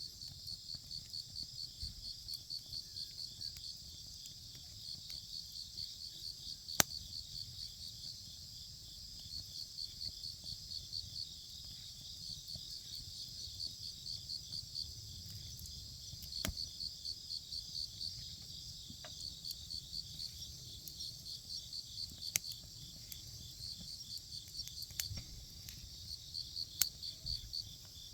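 Crickets chirping in a continuous, rapid pulsing trill, with a few sharp pops from a crackling wood fire; the loudest pop comes about a quarter of the way in.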